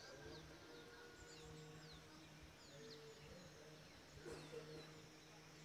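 Faint morning birdsong: many short, high chirps and falling whistles from several birds. Under it runs a low, steady drone that breaks off briefly now and then.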